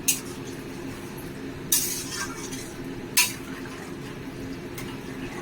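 A metal spoon stirring in a cooking pan of gravy, scraping and clinking against the pan in three sharp strokes about a second and a half apart, over a steady low hum.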